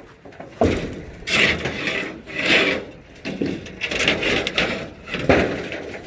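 Old shed lumber being torn loose and handled: a run of irregular scraping, cracking clatters, with sharp knocks about half a second in and again near the end.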